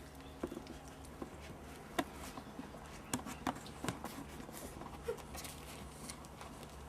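Month-old puppies playing: scattered taps and clicks of small paws pattering about, with a brief squeak about five seconds in.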